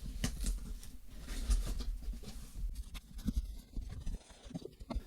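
Scratching, rustling and small clicks of a mail package being handled and opened.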